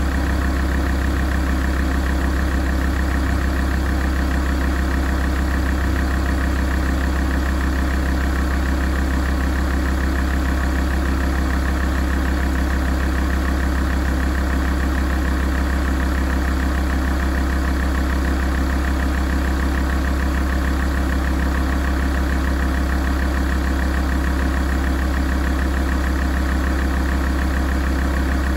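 Alfa Romeo 166 facelift's 2.4 JTDm five-cylinder common-rail diesel engine idling steadily while it warms up, with no revving.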